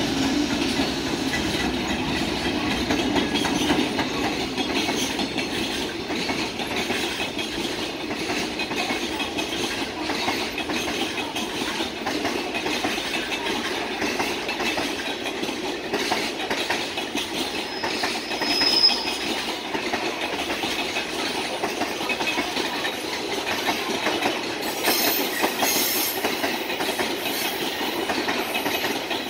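Long container freight train hauled by a JR Freight EF210 electric locomotive passing at speed: a steady rumble of wagon wheels with rapid clickety-clack over the rail joints. A short high wheel squeal sounds once, a little past the middle.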